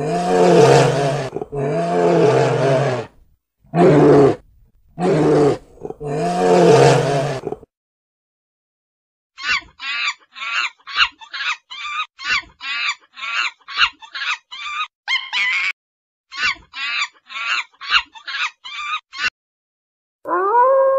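Brown bears growling in a series of long, deep roars, about five in the first eight seconds. After a short pause, monkeys give rapid chattering calls, two or three a second, for about ten seconds. Near the end a grey wolf begins to howl, rising and then holding steady.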